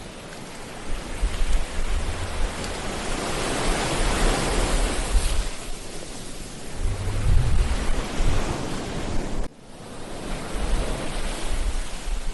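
Ocean waves breaking and washing up on a beach: a steady rush of surf that swells about four seconds in, with wind rumbling on the microphone. The sound drops out abruptly for a moment about nine and a half seconds in, then picks up again.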